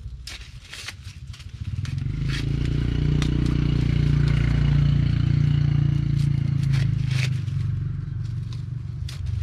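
A small engine comes close, growing louder about two seconds in and easing off near the end, over sharp snaps and crackles.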